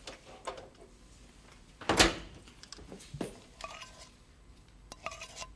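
Light clatter and clicks from a small container being handled, with a sharp knock about two seconds in and a second knock about a second later.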